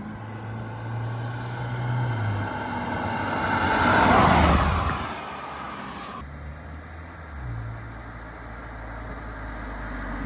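BMW M135i F40's turbocharged four-cylinder engine through an Akrapovič titanium slip-on exhaust, the car accelerating hard and passing. It is loudest about four seconds in, then fades with a falling pitch to a low steady rumble.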